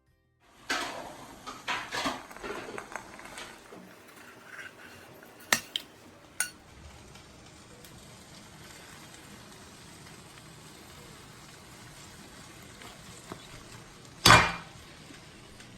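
Kitchen utensils and pots clattering and knocking for a few seconds, then three sharp clinks, then a steady faint hiss with one loud clank near the end.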